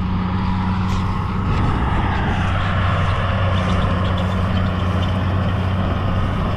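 A vehicle engine running steadily with a constant low hum, and a wash of broader noise that swells about two seconds in.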